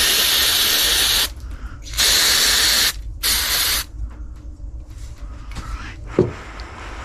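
Three bursts of hissing spray, the first about a second and a half long, then two shorter ones, followed about six seconds in by a short knock.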